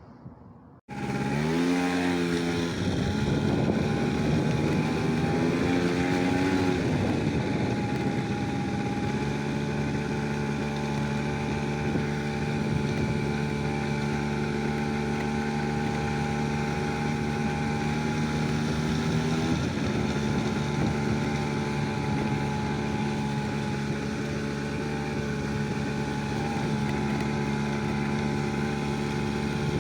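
An engine starts abruptly about a second in. Its pitch rises over the next couple of seconds, then it runs steadily.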